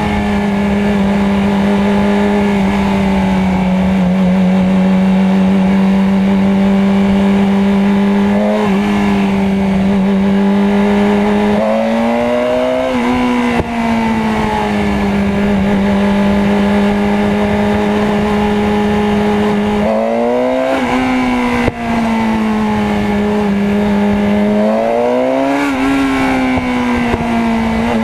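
Motorcycle engine running at a steady pitch in traffic, rising and falling a few times as the throttle opens and eases off.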